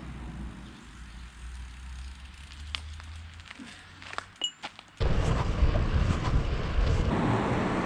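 Wind on the microphone and road noise from a moving bicycle: a low rumble with a few faint ticks at first, then turning suddenly much louder about five seconds in.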